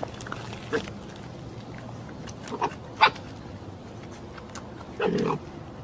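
A dog barking now and then: a few short, sharp barks, then a longer bark about five seconds in.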